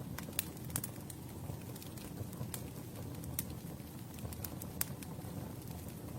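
Campfire burning: a steady low rush of flame with scattered, irregular sharp crackles and pops from the burning wood.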